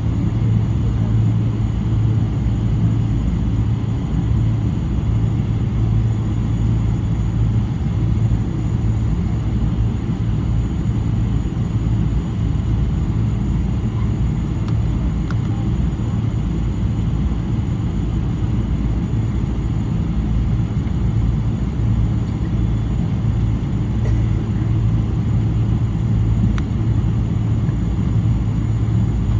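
Steady low drone inside the cabin of a Boeing 777-300, its Rolls-Royce Trent 800 engines running with a strong even hum, holding the same level throughout.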